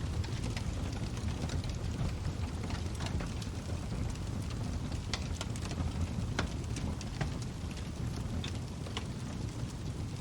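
Log fire burning in a fireplace: a steady low rumble with irregular sharp crackles and pops from the burning wood, a couple of louder pops near the middle.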